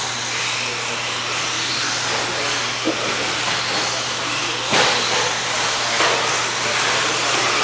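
A field of modified-class electric RC stadium trucks, a steady hiss of motors and tyres on the track, jumping suddenly louder about five seconds in as the race starts.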